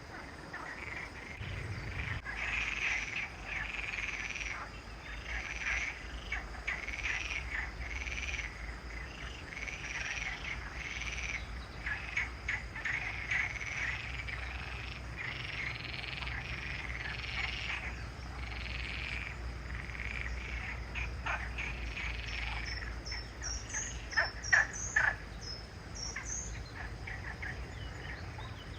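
Chorus of frogs calling continuously, many overlapping repeated calls, with a few short high bird chirps near the end.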